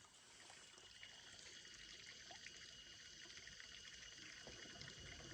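Near silence: a faint, steady background hiss, with no distinct sound events.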